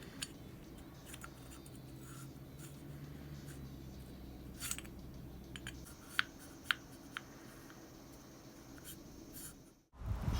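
Faint scraping and rubbing with a few light sharp clicks, over a low steady hum that stops a little past halfway.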